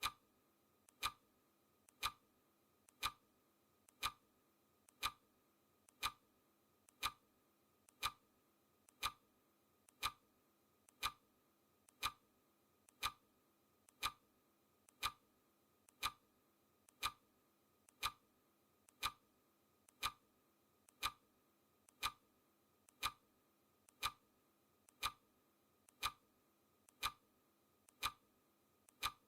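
Mechanical clock ticking once a second, each tick a faint click followed closely by a louder one.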